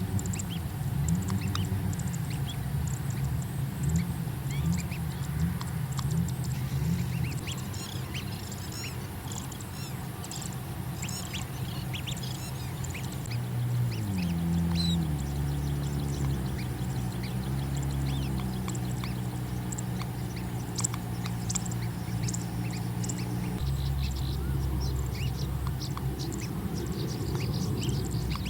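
Short bird calls and chirps, thickest in the middle stretch, over a louder low drone whose pitch shifts in steps and then holds.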